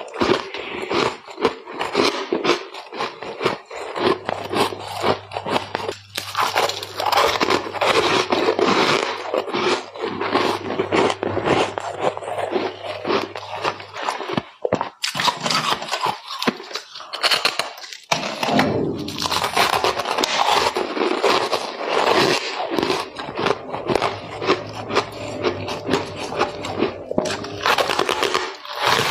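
Close-up chewing of powdery, refrozen freezer-frost ice: dense, rapid crunching and crackling, bite after bite, with brief pauses.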